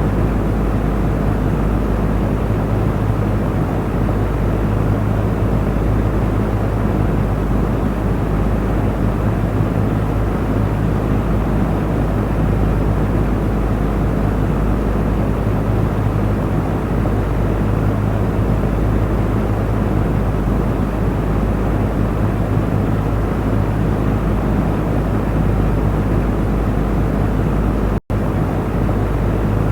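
Electric fan running steadily: an even rush of moving air over a low motor hum. Near the end the sound cuts out for a split second and comes straight back.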